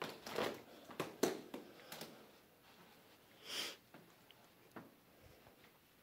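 A person sniffing once through the nose, a short hiss about three and a half seconds in, after a few faint knocks and rustles in the first two seconds.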